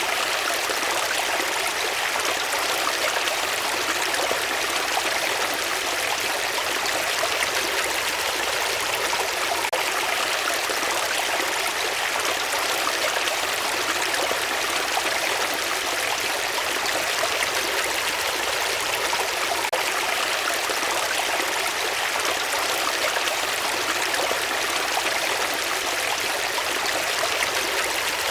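Steady rush of flowing water, even and unbroken, with no single splashes standing out.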